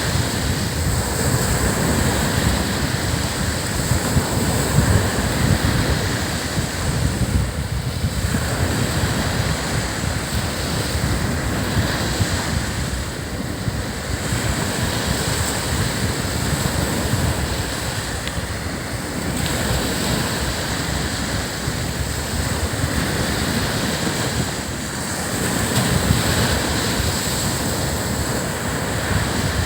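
Surf breaking and washing up a sandy beach in a steady rush that eases briefly about every five or six seconds, with wind rumbling on the microphone.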